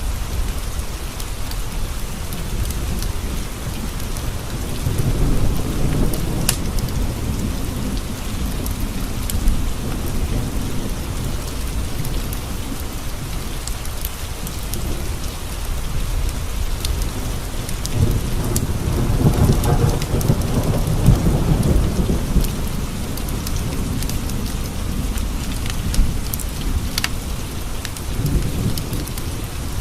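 Steady rain with two low rolls of thunder, a smaller one about five seconds in and a longer, stronger one about two-thirds of the way through. Scattered small sharp ticks sound over the rain.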